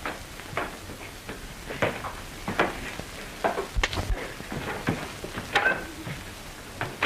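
Scattered knocks and clatter at irregular intervals over the steady hiss of an old film soundtrack.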